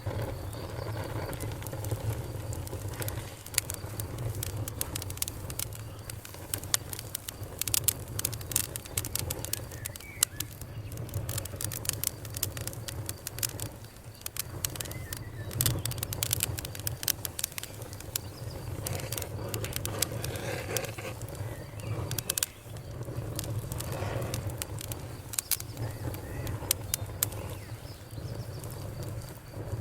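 Fire crackling: an irregular, continuous run of sharp pops and snaps over a low steady rumble.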